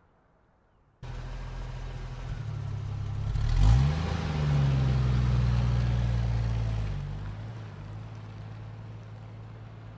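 Car engine running, rising and falling in pitch about three and a half seconds in at its loudest, then running steadily and fading over the last few seconds.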